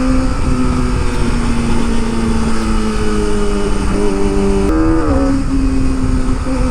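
Kawasaki ZX25R's inline four-cylinder engine running at high revs through an Akrapovic exhaust while riding, over steady wind rush. The note eases down in small steps, then rises sharply and wavers about three-quarters of the way through.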